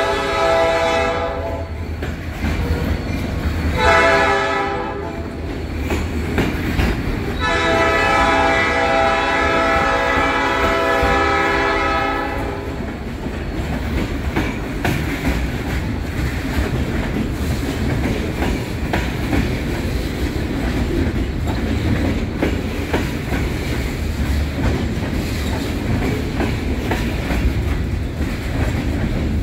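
Horn of a Great Lakes Central diesel freight locomotive sounding in blasts: one ends about a second and a half in, a short one follows, then a long one stops about twelve seconds in. A steady low rumble of the freight train's cars rolling past runs beneath and continues after the horn.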